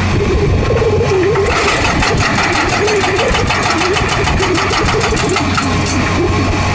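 Excavator engine running under load with a wavering hydraulic whine, and a hydraulic breaker hammering in a fast, even train of blows from about a second and a half in until near the end.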